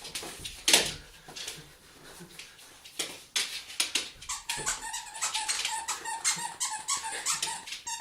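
A dog's squeaky toy being squeezed over and over. It gives a rapid run of high squeaks from about halfway through, after scuffling and knocks.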